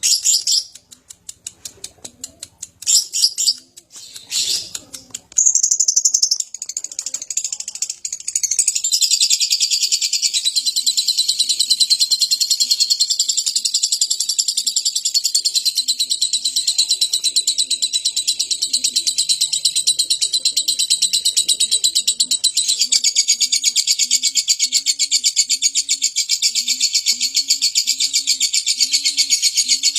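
Lovebird singing: a few separate sharp chirps, then from about a quarter of the way in one long, unbroken, rapid high chatter. In the second half a low call repeats about once a second underneath.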